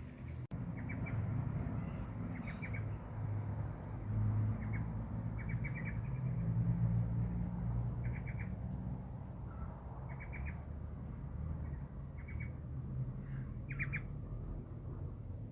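Bulbul calling: short clusters of three or four quick high notes, repeated every second or two, over a steady low rumble.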